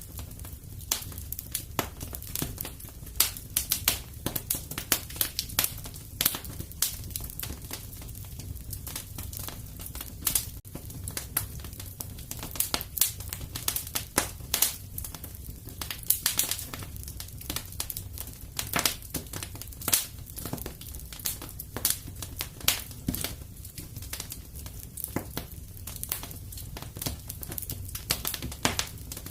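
Wood fire burning in a fireplace: frequent, irregular crackles and sharp pops over a steady low rumble.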